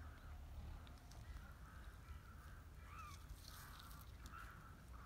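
Faint bird calls repeated over and over, with light rustling.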